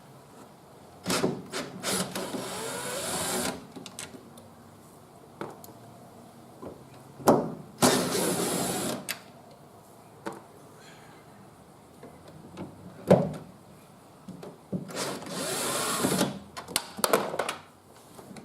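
Cordless power drill or driver with a socket spinning off the three nuts that hold a side mirror to a car door. It gives three short whirring runs several seconds apart, with small clicks and knocks of the tool and parts between them.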